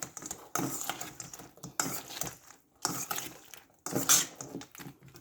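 A cooking utensil scraping around a pan, stirring fried chicken pieces into a sticky honey sauce, in about five strokes roughly a second apart.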